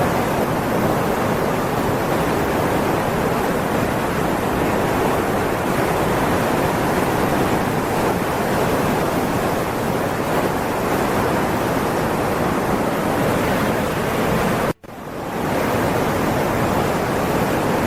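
Rushing floodwater, a steady, even roar of water. It cuts out abruptly about 15 seconds in and swells back within a second.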